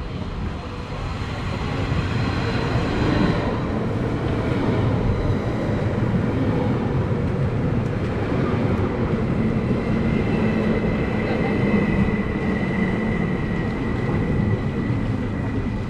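A train running close by: a steady rumble of wheels on rails that grows louder over the first two seconds and then holds, with a thin high whine joining about ten seconds in.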